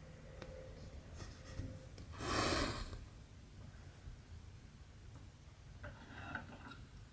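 Cotton embroidery thread drawn through cross-stitch fabric: one loud swish of the pull about two seconds in, lasting under a second, then fainter rustles near the end.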